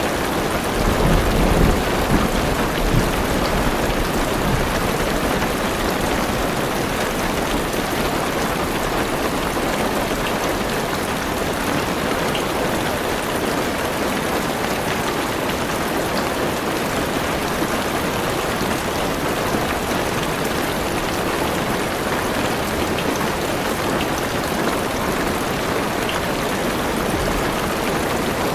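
Heavy rain drumming steadily on a car roof, heard from inside the car, a dense even patter. A low rumble swells briefly in the first few seconds.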